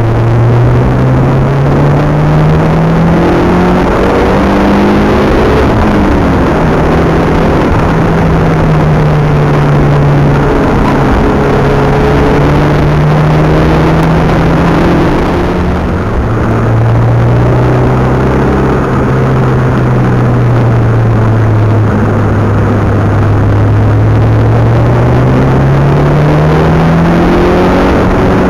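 Mitsubishi Galant VR-4's engine at speed, heard from inside the cabin with road and wind noise. The pitch climbs under acceleration and drops back at each gear change or lift, several times over.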